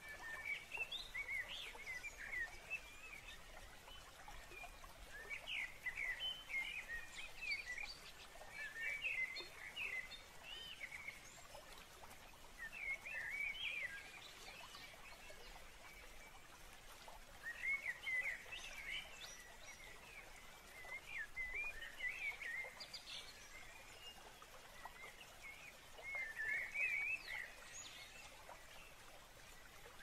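A songbird singing short phrases of quick chirps, a new phrase every few seconds, over a faint steady hiss.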